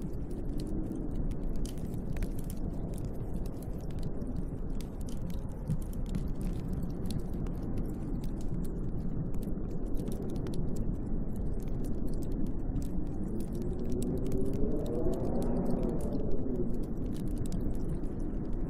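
Wood fire crackling with many small pops over a steady low rush of snowstorm wind. Near the end a gust of wind whistles, rising and then falling in pitch.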